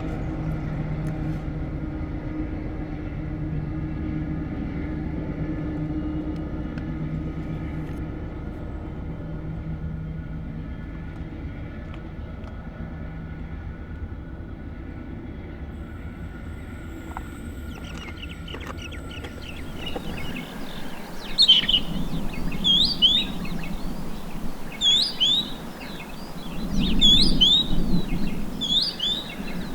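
A diesel locomotive's engine drones steadily and slowly fades as a coal train moves away. About two-thirds of the way through it cuts off abruptly to birds chirping over and over, with a low rumble swelling twice.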